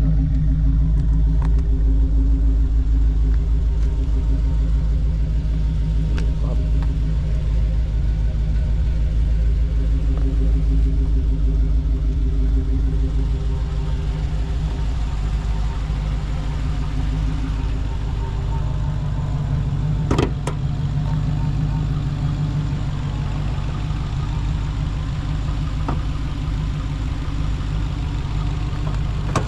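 Supercharged 6.2-litre V8 of a Dodge Hellcat Redeye running steadily with a deep, even drone. A single sharp click sounds about twenty seconds in.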